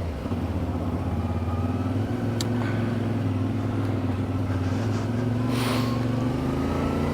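Motorcycle engine running while riding, its note holding steady and then rising gently in pitch over the last couple of seconds.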